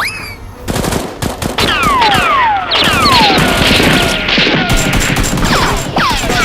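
Heavy rapid gunfire, many shots overlapping in a fusillade, starting about a second in, with repeated falling whistling tones over it.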